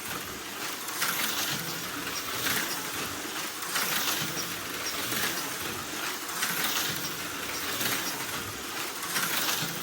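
HO scale slot car on a Viper V3 chassis running laps on the track, its small can motor whirring and the car rattling along the slot, the sound swelling each time it passes, about every second and a half. The motor has a new Gen 4 end bell and runs fast.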